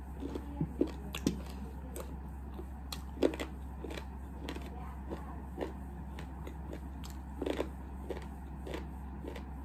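Close-miked mouth sounds of a person chewing food: irregular wet clicks and small crunches, a few louder than the rest, over a steady low hum.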